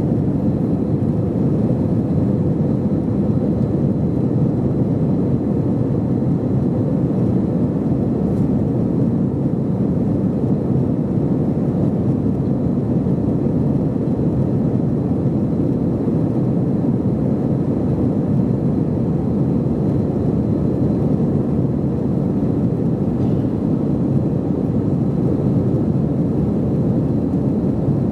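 Cabin noise aboard an Airbus A321-211 in flight: its CFM56 engines and the airflow over the fuselage make a steady, deep rumble.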